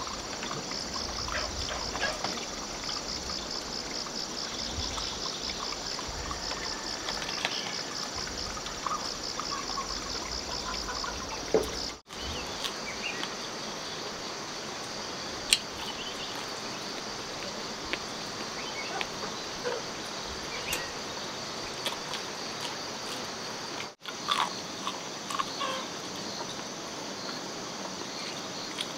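Forest ambience: a high-pitched insect trilling in short, evenly repeated phrases over a steady hiss that may be running water, with scattered light clicks and knocks. The trilling fades into the background partway through, and the whole sound breaks off sharply twice.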